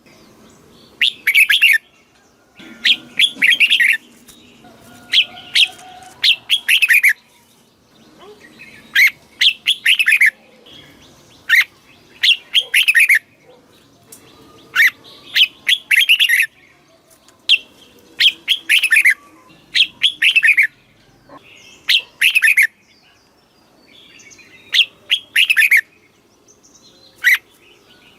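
Red-whiskered bulbul singing: short, bright whistled phrases of a few falling notes, repeated every second or two.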